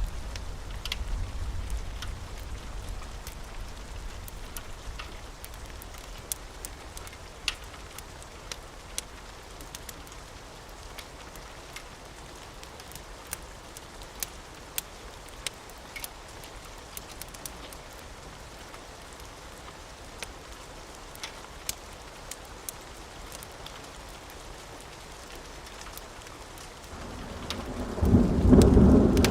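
Steady rain with scattered sharp crackles from a wood fire. A low thunder rumble fades away over the first few seconds, and a loud roll of thunder builds near the end.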